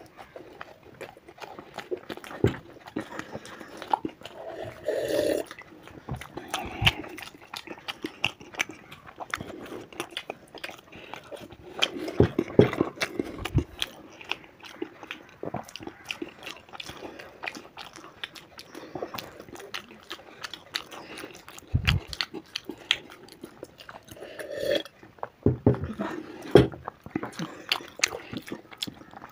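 Two people chewing and eating food close to the microphone: wet mouth sounds with many short clicks.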